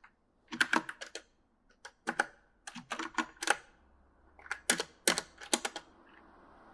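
E-Element mechanical gaming keyboard being typed on in four uneven bursts of key clicks with short pauses between them.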